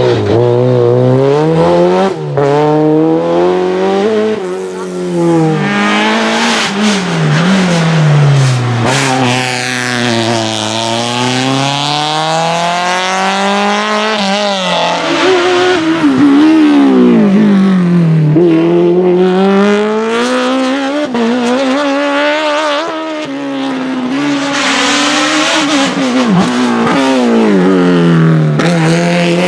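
Race car engines run hard through a slalom course, the engine note climbing under acceleration and dropping on lifts and downshifts over and over.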